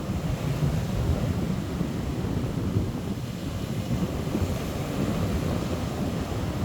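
Strong sea wind buffeting the microphone in a steady low rumble, over the wash of waves.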